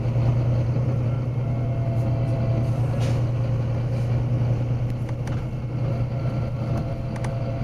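Diesel engine of a Volvo B9TL double-decker bus running with a steady low drone.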